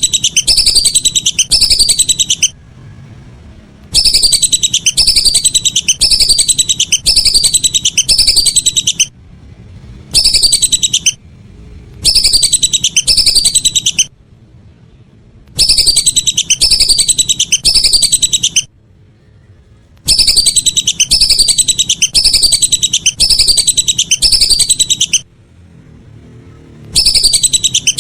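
Whistling duck (belibis) calls: bouts of loud, high whistled notes, each sliding downward, repeated about three times a second, with short pauses between the bouts. It is a lure recording used to call the ducks in.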